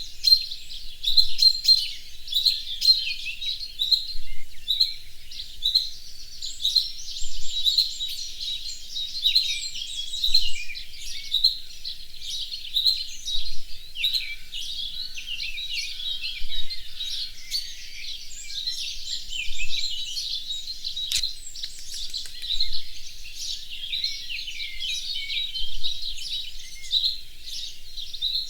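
Small birds chirping and twittering without pause, short high calls following one another several times a second.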